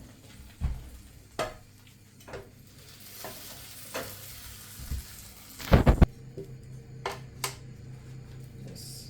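Kitchen utensils knocking against a pan several times, with a loud cluster of clatters about six seconds in. A sizzling hiss runs for a few seconds before that clatter.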